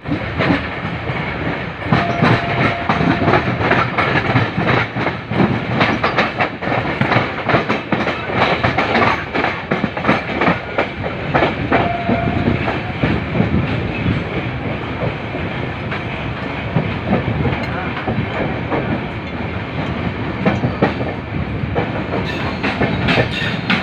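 Passenger train running at speed, heard from an open coach door: wheels clattering over rail joints and points, with a continuous rumble and rush. A brief steady tone sounds twice, once about two seconds in and again about twelve seconds in.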